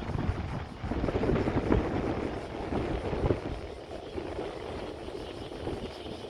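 Strong wind buffeting the microphone in irregular gusts, a rough rumbling that swells and eases, louder in the first half, as a typhoon approaches.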